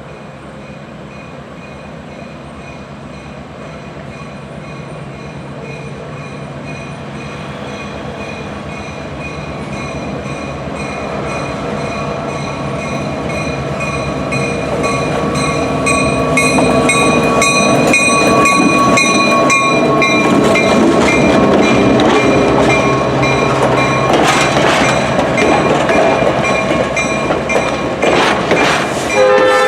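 A train approaching and passing close by, growing steadily louder, with wheels clattering over the rail joints as it nears. The horn starts to sound right at the end.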